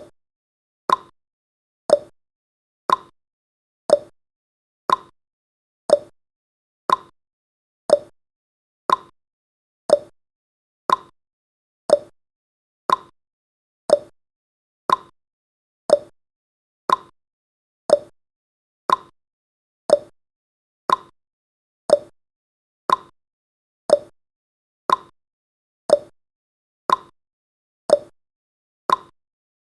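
Countdown timer's ticking sound effect: one short, evenly spaced tick every second.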